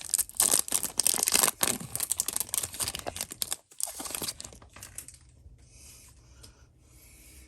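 Foil Yu-Gi-Oh booster pack wrapper crinkling and being torn open, dense crackling for the first four or five seconds with a short break partway, then fading to faint rustling.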